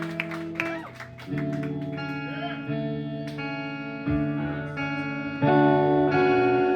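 Live band music led by a guitar with effects, picking notes and then letting chords ring, growing louder about five and a half seconds in.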